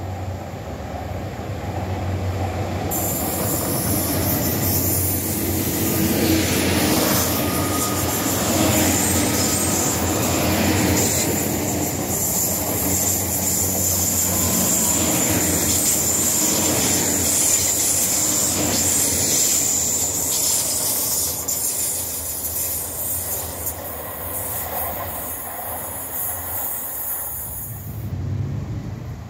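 A Great Western Railway Hitachi intercity train approaching and passing close on a curve: the rumble and clatter of its wheels swell over the first few seconds, with a steady high-pitched wheel squeal over them. The sound cuts off abruptly about a second before the end.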